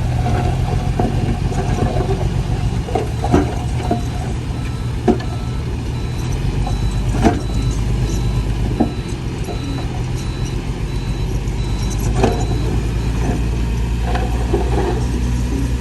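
Heavy earthmoving machine's diesel engine running steadily, with several short sharp knocks, the loudest about three, seven and twelve seconds in.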